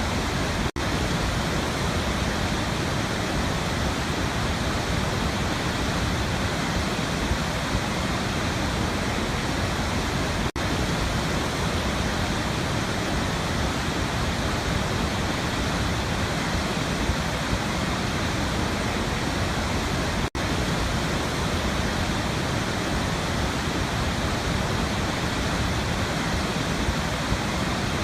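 Waterfall, water pouring and splashing in a steady, unbroken rush. Three split-second gaps fall about ten seconds apart, near the start, in the middle and about two-thirds of the way through.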